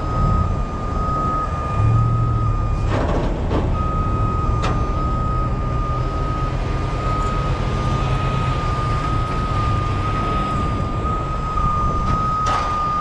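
A vehicle's backup alarm beeping over and over at one steady pitch, over the low, steady running of a heavy diesel engine, with a few short bursts of noise in between.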